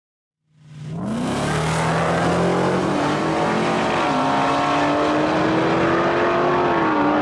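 Drag-racing pickup truck's engine at full throttle, fading in about half a second in, its pitch climbing steadily with short dips about four and seven seconds in as it shifts gears.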